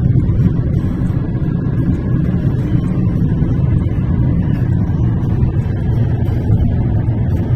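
Steady low rumble of a car's engine and tyres heard inside the cabin while driving at road speed.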